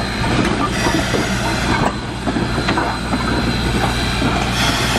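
Steam locomotive rolling along the track at close range, a steady rumble with irregular clicks and clanks from its steel wheels on the rails.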